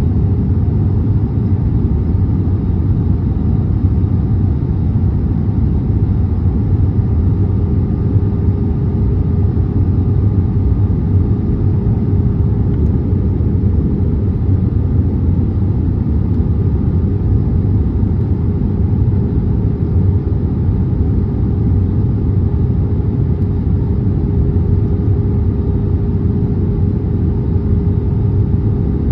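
Steady cabin noise inside an Airbus A320neo: a constant drone of engines and airflow, with a steady hum held throughout.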